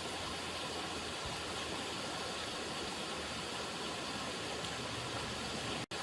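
River water running, a steady even rush. It cuts out completely for a split second near the end.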